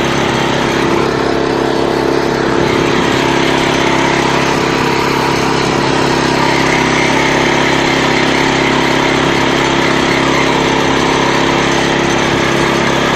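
Walk-behind tractor (motoblock) engine running steadily as the loaded machine drives along, a constant even drone without pauses.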